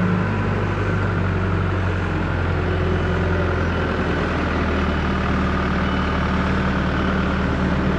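An engine idling steadily, a low even hum with noise over it.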